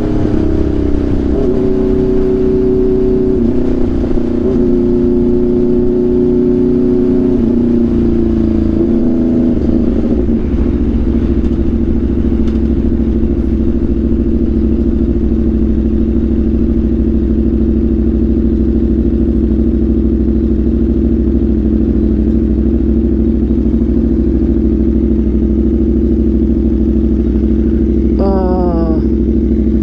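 Aprilia RSV4 V4 engine through an SC-Project CRT exhaust, settling down as the bike slows for a red light and then idling steadily, with a brief change in pitch near the end.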